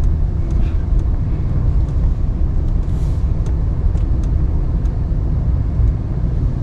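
Ram 1500 Classic pickup's engine running steadily, a low rumble, as the truck pushes snow with a straight plow blade. A few faint ticks sound over it.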